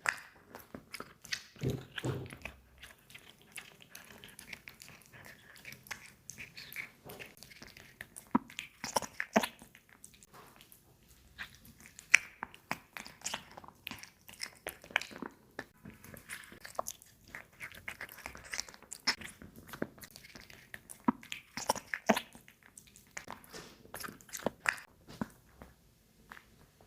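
A cat eating raw meat and bone, with irregular crunching bites and chewing that pause briefly about ten seconds in.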